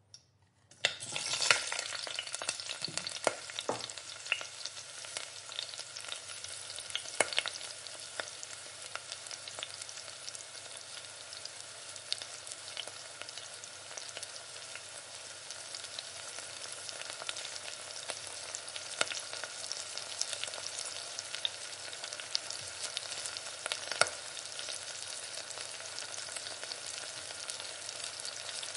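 Chopped garlic and dried red chillies sizzling in hot oil in a nonstick pan, the sizzle starting suddenly about a second in. A silicone spatula stirs and scrapes through it, with scattered sharp clicks against the pan.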